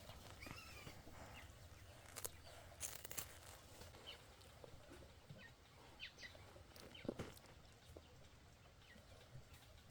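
Near silence: faint farmyard background with a brief faint call about half a second in and a few soft clicks and taps scattered through.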